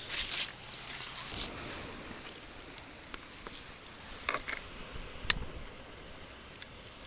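Scattered handling noises: two short rustles, one at the start and one about a second and a half in, then a few sharp clicks and light knocks, the loudest a little after five seconds in.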